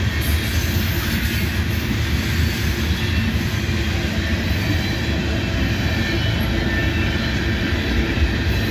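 Freight train running past steadily, its cars rolling over the rails as it gets up to its 45 mph mainline speed.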